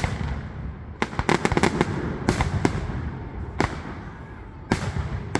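Fireworks display: aerial shells bursting with sharp bangs, a quick run of several reports about a second in, then single bangs roughly a second apart, with crackling between.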